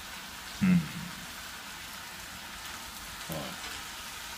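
Chicken frying with a steady, even hiss. A short vocal sound comes about a second in and another about three seconds in.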